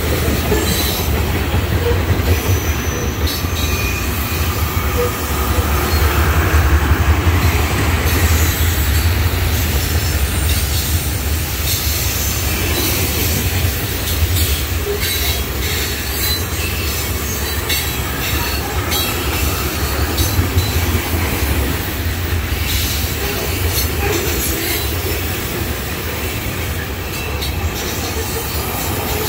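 Loaded tank cars of a freight oil train rolling past close by: a heavy, steady low rumble of steel wheels on rail, with rattling wheel clacks and occasional brief high wheel squeals.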